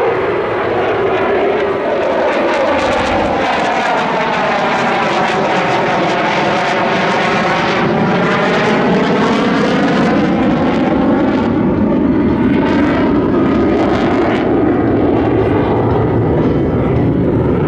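Fighter jet engines running loud and steady during a low pass, with a sweeping, phasing whoosh that bends down and back up in pitch as the jet goes by.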